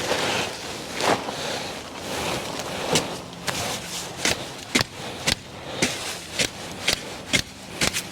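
Rustling with a run of sharp clicks or snaps, roughly two a second, from hands-on garden work.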